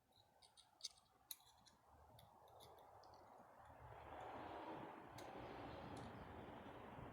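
Faint handling of small distributor parts: a few light clicks, then a soft, steady rushing noise that swells from about two seconds in.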